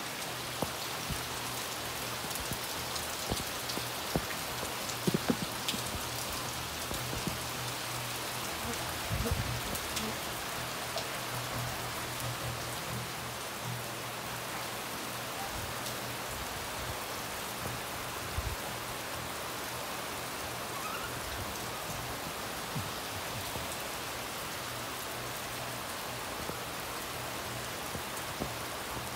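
Steady rain falling on wet ground, puddles and plants, with scattered sharper drop and tap sounds close by, the loudest around five and nine seconds in. A faint low steady hum runs underneath.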